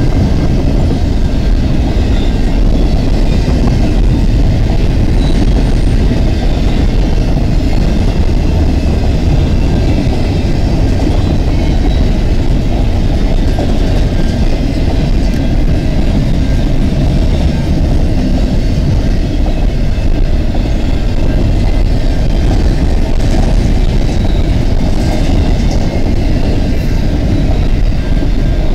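Double-stack intermodal freight cars rolling past a level crossing: a loud, steady rumble and rattle of steel wheels on rail.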